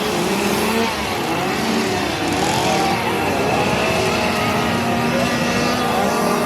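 Loud engine noise with many overlapping wavering and gliding tones, like motors revving, over a steady low hum.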